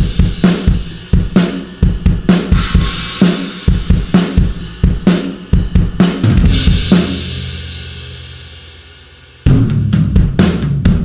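Sampled drum kit from the Blasting Room Signature Series Drums Kontakt library playing a groove of kick, snare, hi-hat and cymbals. About seven seconds in the playing stops and a cymbal rings out and fades, and near the end a new, faster pattern starts.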